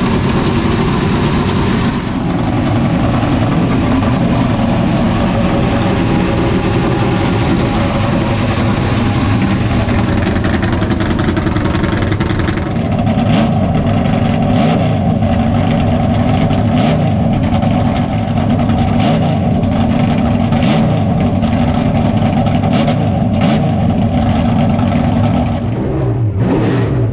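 NASCAR stock car V8 engines running at idle. The tone shifts about halfway in, and near the end the engine pitch dips and then climbs again as the throttle is opened.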